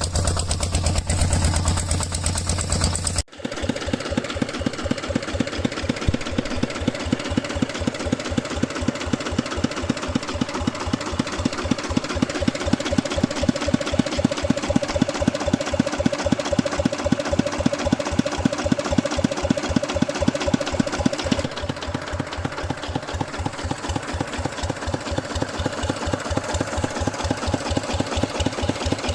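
A small engine running steadily with an even pulse several times a second, the sound of the mini tractor. About three seconds in, a different sound with a heavy low hum cuts off abruptly and the engine sound takes over.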